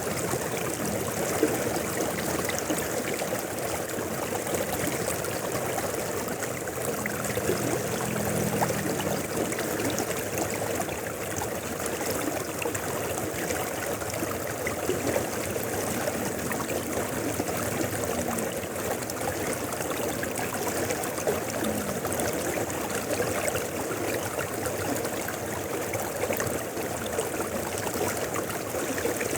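Mountain river flowing: a steady, even sound of running water that holds level without a break.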